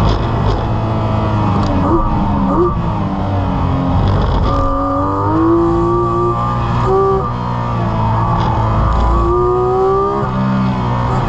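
Porsche 718 Cayman GT4 RS's naturally aspirated 4.0-litre flat-six, heard from inside the cabin accelerating out of a slow corner. There are a couple of short revs about two seconds in. Then the revs climb, drop at an upshift about seven seconds in, and climb again near the end.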